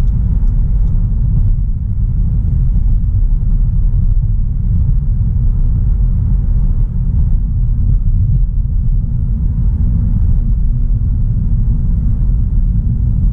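Steady low rumble of a 2016 Audi A3 Sportback 1.4 TFSI on the move: engine and road noise holding an even pitch, with no revving up or down.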